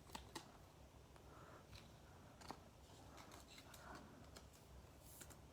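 Near silence, with a few faint clicks and soft rustles of trading cards being handled and sorted on a table.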